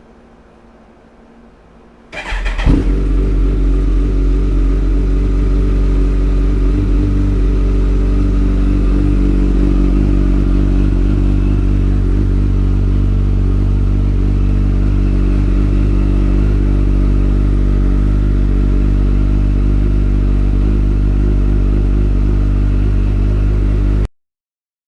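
2014 Kawasaki ZX-14R's inline-four engine breathing through a Two Brothers black slip-on exhaust: it starts about two seconds in, catching with a brief flare, then idles steadily. The sound cuts off suddenly near the end.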